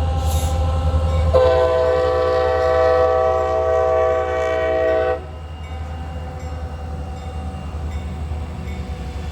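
Freight train's multi-chime air horn sounding one long blast of about four seconds for the grade crossing, over the steady low rumble of the diesel locomotives; the rumble carries on after the horn cuts off. The horn is on the lead unit, a CSX EMD SD40-2.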